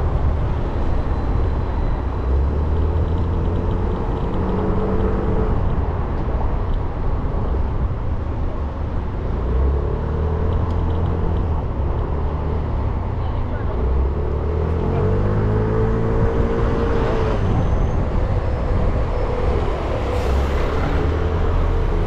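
Motorcycle engine running while riding through city traffic, its pitch rising and falling several times as it speeds up and eases off, over steady wind and road noise.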